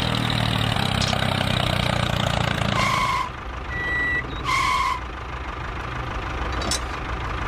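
An engine running steadily, easing off about three seconds in, with two short electronic beeps about a second and a half apart.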